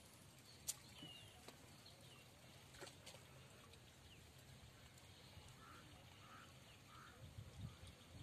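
Near silence with faint outdoor bird calls: a few short chirps in the first half, then a run of calls repeating about every half second in the second half. A single sharp click sounds about a second in.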